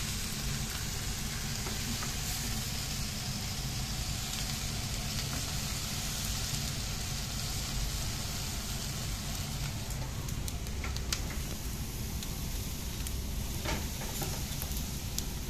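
Steady sizzling of food frying: Brussels sprouts with diced bacon in a pan, turned with a spatula, then pork belly strips grilling over glowing charcoal. A few sharp pops and crackles come in the second half.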